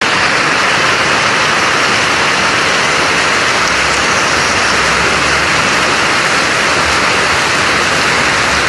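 Heavy rain pouring down in a loud, steady hiss, mixed with the rush of muddy floodwater.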